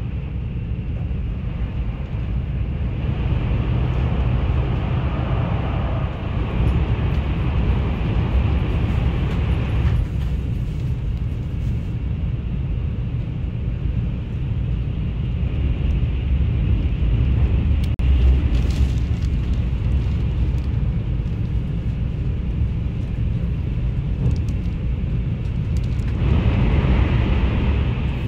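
Steady low rumble of a Shinkansen bullet train running, heard inside the passenger car. A brighter hiss swells over it from about three to ten seconds in and again near the end.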